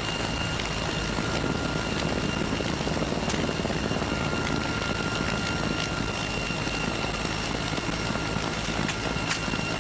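Military helicopter running steadily: a dense rotor and engine noise with a steady high whine over it, a second whine joining about four seconds in.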